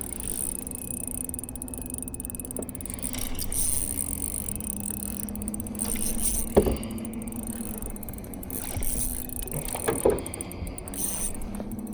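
Small fishing boat's electric trolling motor humming steadily, with two short knocks on the boat, one about six and a half seconds in and one about ten seconds in.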